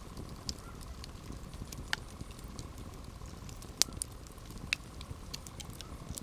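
Campfire burning: a steady low rumble of flame with a continuous patter of small crackles and a few sharp, louder pops, the loudest just past the middle.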